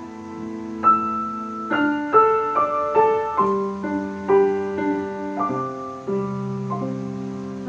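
Solo piano playing a slow melody, single notes struck about every half second over sustained lower notes, each ringing on as it fades.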